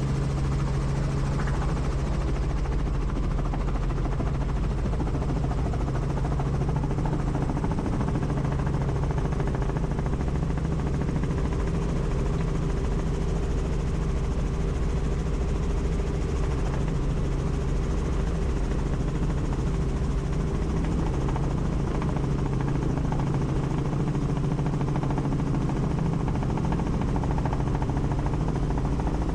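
Helicopter turbine and rotor running steadily, a constant deep hum with a rush of air and no change in pitch or level.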